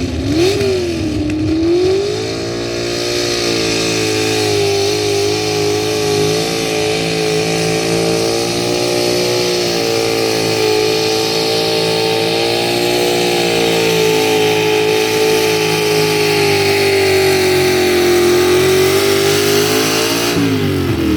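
Pulling truck's engine on a sled pull: a few short revs, then the engine climbs to high revs about two seconds in and holds them under load, then drops off near the end as the run finishes.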